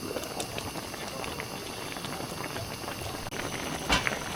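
Steady crackling and sizzling at a campfire, with many small pops and one louder pop near the end.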